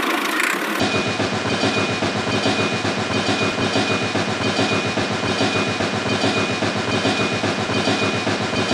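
A train running on rails: a steady rhythmic clickety-clack of wheels with a thin, steady high tone over it, cutting in about a second in.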